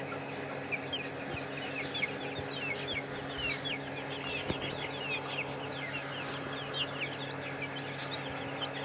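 Many chickens calling at once: a dense run of short, falling peeps that overlap, over a steady low hum.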